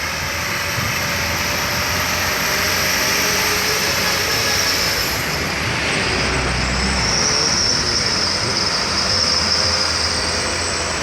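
Heavy sugarcane truck's engine running hard under load, with a steady wash of road and wind noise.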